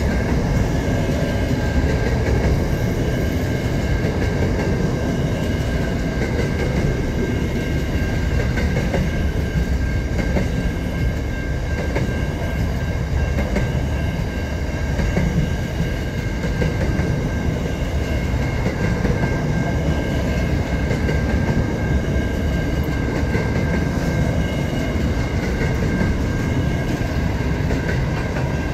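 Freight train rolling past close by: a steady rumble of wagon wheels on the rails with a faint clickety-clack and a steady high ringing over it.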